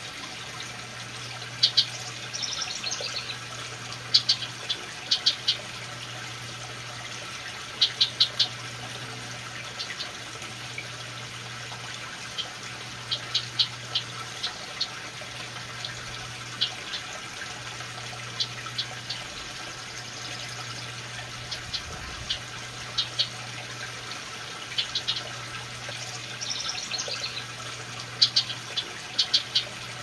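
Small bird giving short, high chips in quick runs of two to four, repeating every second or two, over a steady low hum.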